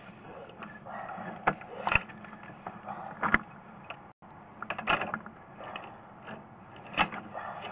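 Sewer inspection camera cable being pushed through a 3-inch cleanout line: irregular clicks and knocks of the cable and its gear over a low steady hum.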